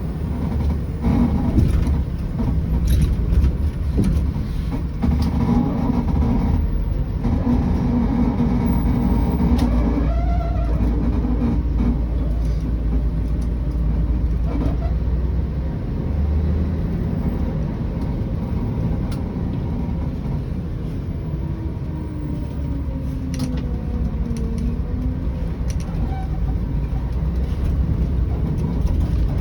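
Scania 113's diesel engine running as the vehicle drives along, a steady low drone with a few slight shifts in pitch.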